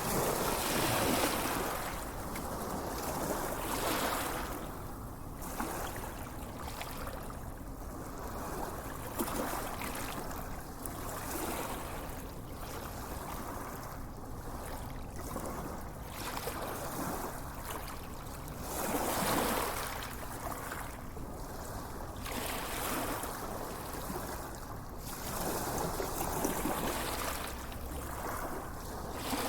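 Moving water rushing steadily, with swells every few seconds.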